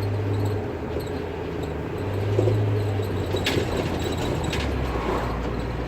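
An engine running steadily with a low hum that drops in pitch about four and a half seconds in, and a sharp click about three and a half seconds in.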